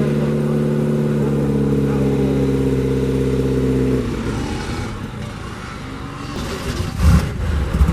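Car engine running at steady revs with an even tone. About four seconds in it breaks off into quieter, rougher engine noise, and a louder low rev comes near the end.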